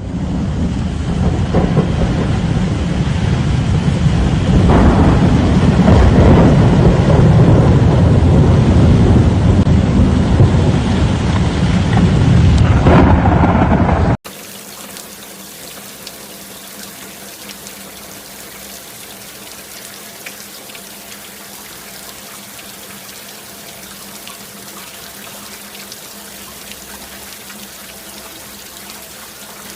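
Storm wind blowing hard on the microphone, with gusty rumbling over heavy rain. About halfway through it cuts off sharply to a quieter, steady hiss of falling rain.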